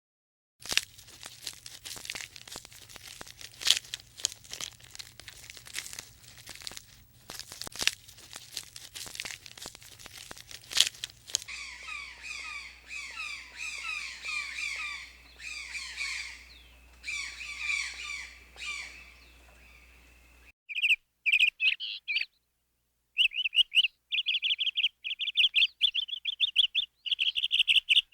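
Scattered crackling clicks for about ten seconds, then birdsong of quick, repeated down-slurred notes, then loud, rapid bird chirping in bursts with a short break.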